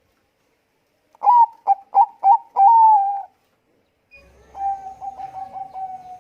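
Bangkok zebra dove (perkutut) cooing. About a second in comes a loud run of about five short notes ending in a longer, falling note. After a short pause, a softer, rolling coo at a steady pitch follows near the end.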